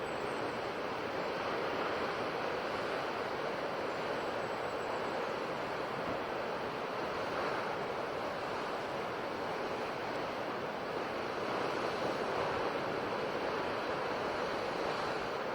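Sea waves washing on a shore: a steady rush of surf that swells gently and eases, with no single crash standing out.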